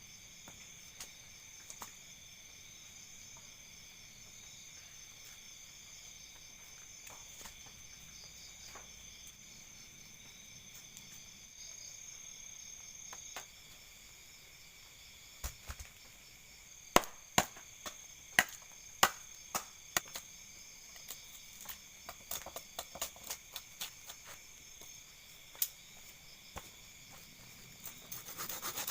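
Night insects, crickets among them, chirring steadily in several high, constant pitches. In the second half, a run of sharp, irregular clicks and knocks stands out as the loudest thing, and a rasping rub begins right at the end.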